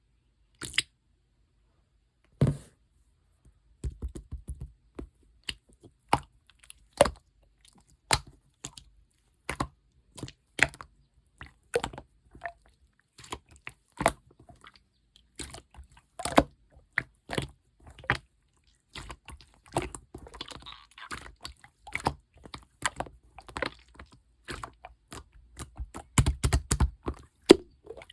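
Clear slime being squeezed and pressed by hand, giving irregular sharp clicks and pops, up to a few each second. About two-thirds through there is a short stretch of softer crackling.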